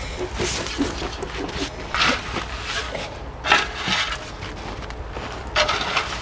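Scrapes and rustles from tidying a garden bed, coming in uneven strokes every second or so.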